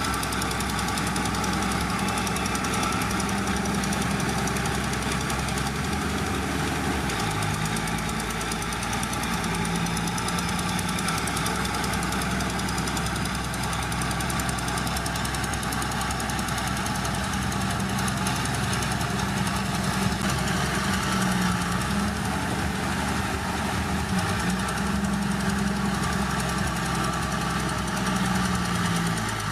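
Heavy diesel engine of an earthmoving machine (bulldozer or dump truck) running steadily, with small shifts in engine speed about seven seconds in and again near the end.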